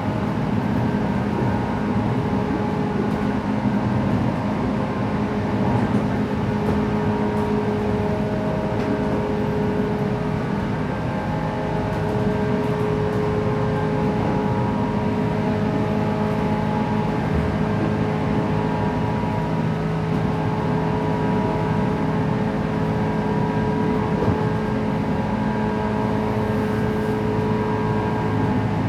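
Interior running sound of a 117 series electric train: wheels and motors droning steadily at an even speed, with several constant humming tones over the rolling noise.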